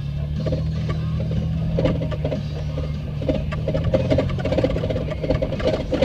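A four-wheel-drive vehicle's engine running at low, steady revs in four-low, with irregular knocks and rattles over it.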